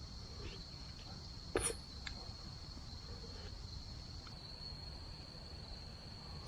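Insects trilling in one steady, unbroken high tone, with a single sharp crack about one and a half seconds in.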